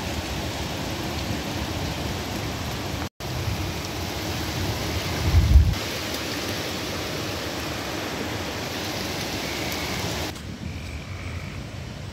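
Steady hiss of heavy rain, with a short low thunder rumble about five and a half seconds in. Near the end the rain noise drops off and frogs start calling.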